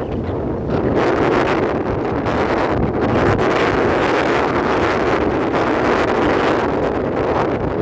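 Strong wind buffeting the microphone: a loud, steady rush of noise that swells and eases slightly with the gusts.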